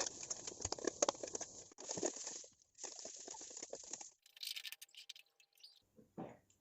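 Sliced onions frying in hot oil in a pan, sizzling and crackling with many small pops, which stops abruptly about four seconds in.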